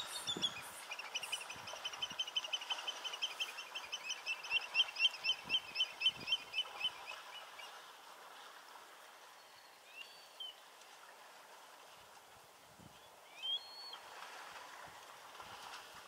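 A bird calling a long, rapid series of sharp repeated notes, about four a second, that grows louder and then fades over some seven seconds; two short single chirps follow later.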